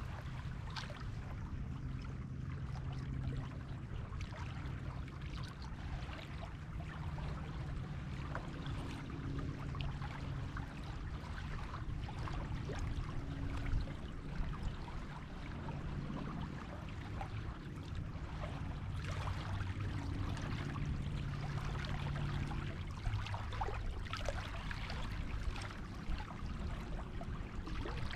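Sea waves washing onto a beach: a steady wash of surf that grows denser and hissier in the last third, over a faint low hum.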